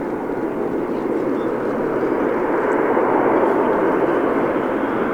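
Airbus A400M's turboprop engines running, a steady dense noise that grows a little louder over the first few seconds.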